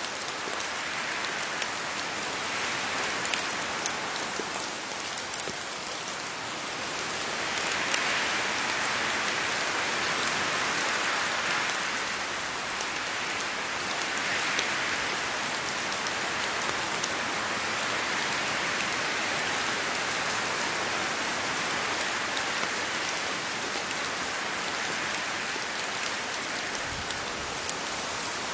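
Steady rain falling on leaves, a dense patter of drops with individual drips ticking through it, swelling slightly at times.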